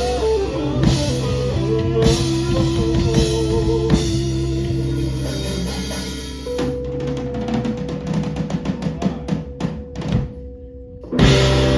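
Live rock band with drum kit and electric guitar playing. About six and a half seconds in the full band drops to one long held note over a rapid run of drum hits, then after a brief lull a loud full-band chord hits near the end, like a song's closing flourish.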